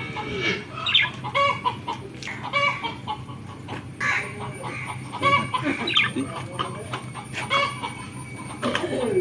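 Birds calling: a string of short, pitched calls repeating every half second to a second.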